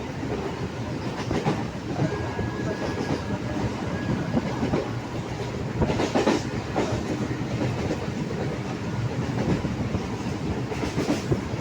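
Train running along the track, its wheels clattering over rail joints in an irregular run of clicks, with a louder burst of clatter about six seconds in.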